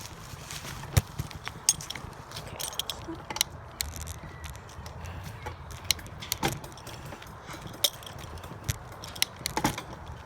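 Keys jingling and clinking in sharp, irregular clicks, shaken by the ride on a bicycle, over a low steady rumble.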